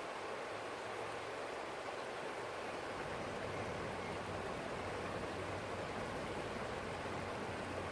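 A small stream flowing, a steady rushing of water.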